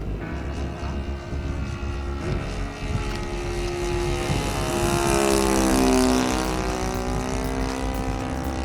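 Saito FA-62 four-stroke glow engine of a radio-controlled S.E.5a biplane model running in flight as the plane passes by. It grows louder to a peak about six seconds in, and its pitch falls as it goes past.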